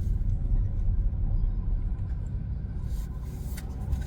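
Low, steady rumble of a car idling, heard from inside the cabin.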